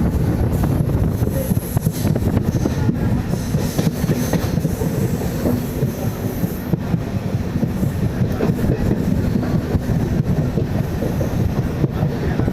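MEMU electric multiple-unit train running on the track: a steady heavy rumble with frequent clicks of the wheels over rail joints.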